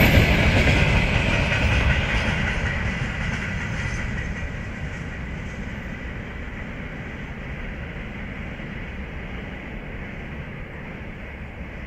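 Freight train of open wagons rolling away on the rails, its wheel rumble fading steadily as the end of the train recedes.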